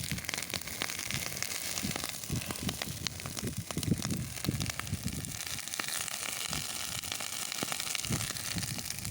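Dry grass burning fast in an open bonfire: dense, rapid crackling and popping over a steady hiss of flames.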